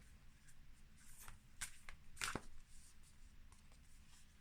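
Faint handling of oracle cards: a few short, soft slides and rustles as a card is drawn from the deck, clustered between about one and two and a half seconds in.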